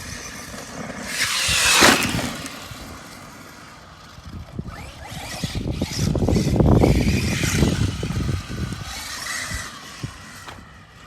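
Arma Mojave 6S RC truck's brushless motor whining up under full throttle, peaking about two seconds in. Then a longer rough stretch of tyres churning dirt with knocks and thumps, as the truck runs over the jump and lands.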